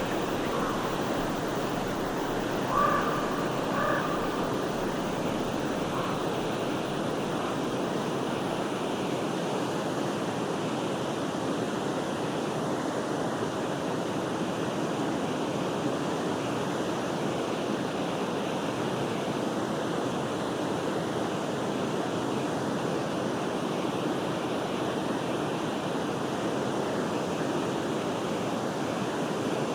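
Forest stream flowing steadily, an even rush of water. A few short bird calls come in during the first few seconds.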